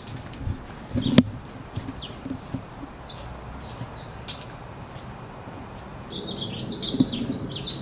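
Small birds chirping: short, high, falling chirps every second or so, running into a quicker string of chirps near the end. A single sharp knock sounds about a second in.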